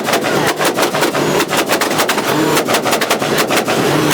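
Car engine held on a two-step launch limiter: a rapid, irregular string of loud exhaust bangs and pops, several a second, over the engine's note, cutting off suddenly at the end.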